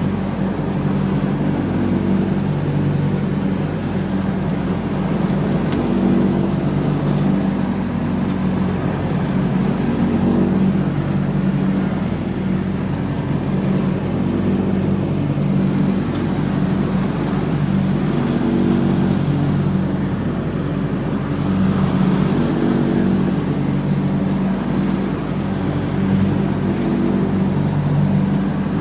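John Deere X304 lawn tractor's engine running steadily with the mower deck engaged during mowing, its pitch holding nearly constant with small rises and dips in strength.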